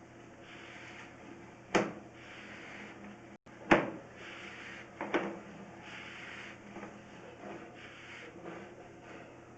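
Three sharp knocks, about a second and a half apart, over a faint steady hiss.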